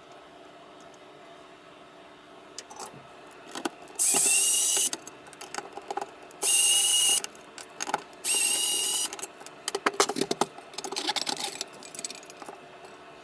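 A small electric motor runs in three short bursts of under a second each, spinning up with a high whine each time. Clicks and handling noises of work on the bench follow.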